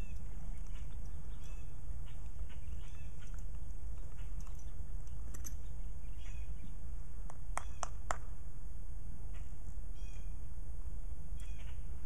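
Scattered short, high bird chirps over a steady low rumble, with a few sharp calls about eight seconds in.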